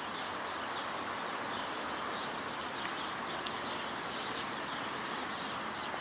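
Small birds chirping in the distance, many short faint calls, over a steady hiss of city background noise.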